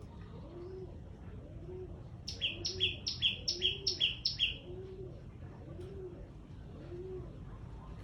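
Birds calling: a small bird gives a loud, rapid run of six sharp notes, about three a second, starting a little over two seconds in. Under it, a low cooing note repeats about once a second, like a dove.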